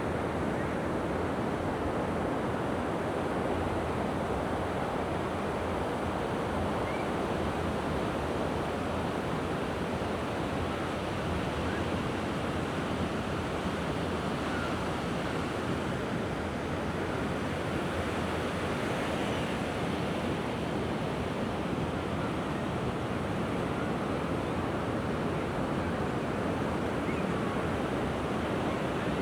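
Mediterranean surf washing on the beach, a steady rush of waves.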